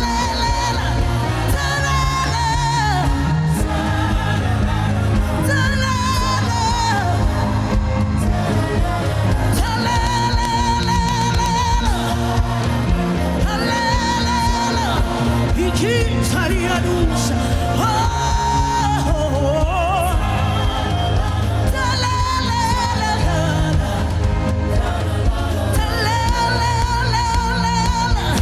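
Gospel worship music: a solo voice sings long, wavering held notes and gliding phrases, without clear words, over a steady accompaniment.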